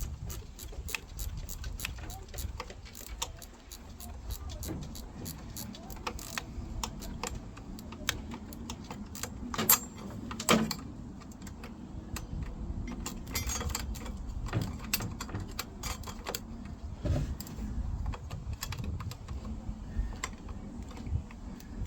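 Irregular metallic clicks and clinks of hand tools on a car engine's mounting bracket being fastened, with two louder knocks about halfway through.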